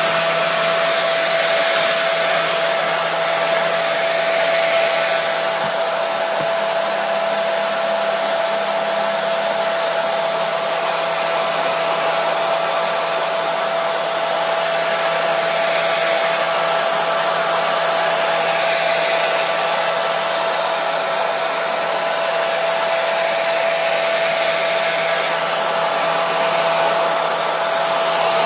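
Electric hair dryer running continuously: a steady rush of air with a constant motor whine, unchanging in level.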